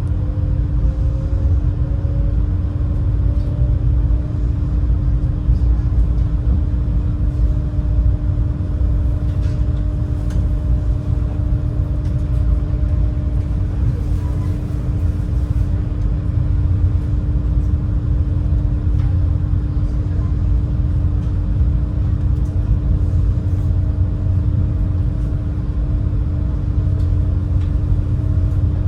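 Super Jet Miyajima high-speed passenger craft's engines running, a deep steady rumble with a constant hum over it and a higher tone that rises slightly in the first few seconds.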